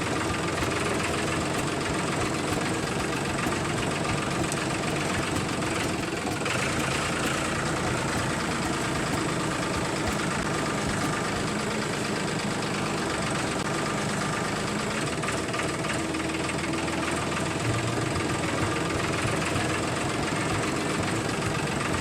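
The small motor of a miniature DIY model tractor running steadily, a continuous mechanical rattle with no change in speed.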